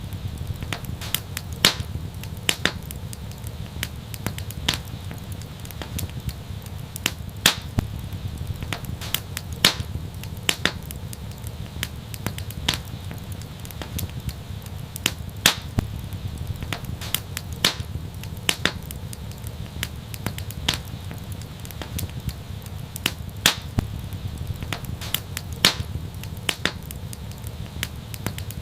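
Wood fire crackling: irregular sharp pops and snaps, several a second, some much louder than the rest, over a steady low rumble.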